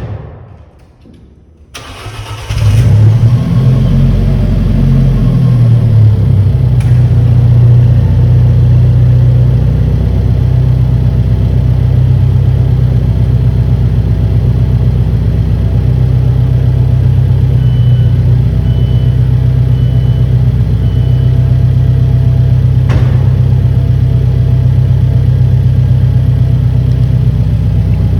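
2016 Alfa Romeo 4C Spider's turbocharged four-cylinder engine started from completely cold: it cranks and fires about two seconds in, flares up briefly, then settles into a steady idle. A short thud comes just before the start.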